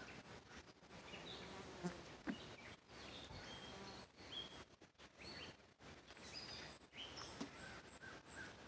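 Faint, quiet outdoor nature ambience: insects buzzing softly, with a few short, faint bird chirps.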